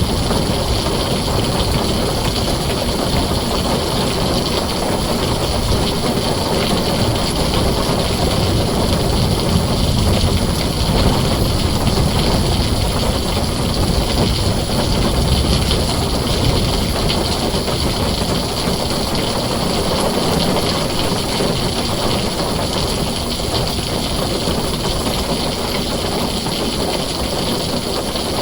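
Heavy rain drumming on a tin roof, a dense steady hiss with a low rumble underneath that swells and fades a little.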